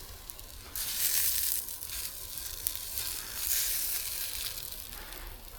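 Pre-cooked bratwursts frying in hot oil, a steady sizzle that swells about a second in and again midway.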